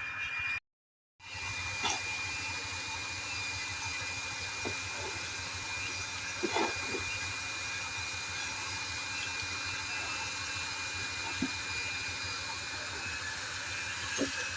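Waterfall: a steady rush of falling water, with a thin, steady high tone running over it and a few faint clicks. The sound cuts out completely for about half a second just under a second in, then resumes.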